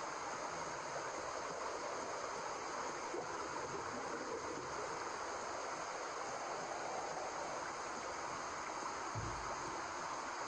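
Steady white-noise hiss for baby sleep, even and unchanging, with a brief low thump about nine seconds in.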